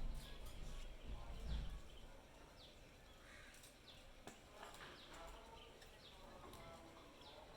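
Pet parrots making many short, soft, falling chirps, with a low rumble in the first two seconds.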